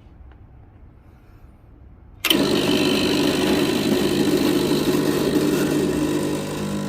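Espresso machine pump switching on suddenly about two seconds in and running with a steady loud hum as a shot is pulled. The level drops a little near the end.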